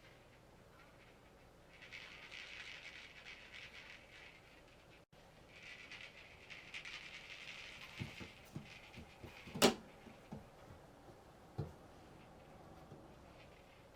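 Kitten playing with a cat toy: two bouts of scratchy rustling, then scattered light knocks and taps, with one sharp click about two-thirds of the way through.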